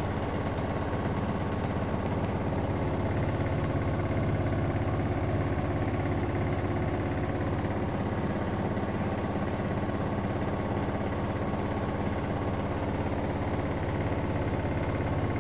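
Siemens WN64A2U9IN front-loading washing machine in its final spin at 1400 RPM: a steady hum of motor and drum, with several steady tones over it.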